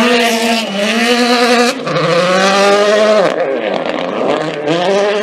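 Rally car's turbocharged four-cylinder engine at full throttle, revs climbing and cut back sharply at a gear change, then falling away about three seconds in and picking up again near the end.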